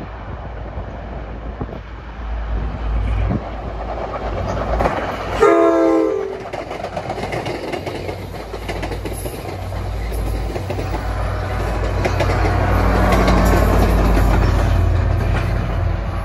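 Commuter train passing close by, its wheels clattering over the rails under a steady low rumble, with one short horn blast about five seconds in. Later a Metro-North F40PH-3C diesel locomotive comes in, its engine rumble growing louder.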